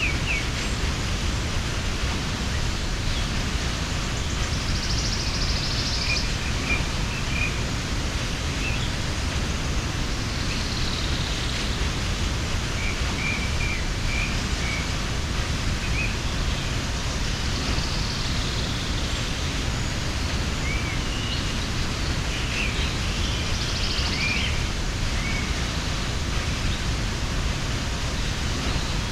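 Steady rushing of a mountain waterfall, with small birds chirping briefly now and then over it.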